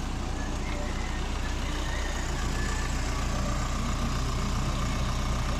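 Isuzu 4HL1 four-cylinder turbo-diesel truck engine idling at a steady, even speed.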